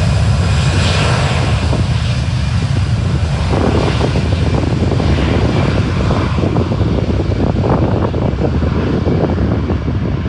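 Jet airliner's engines, a loud steady rumble with a noisy hiss above it, easing slightly near the end.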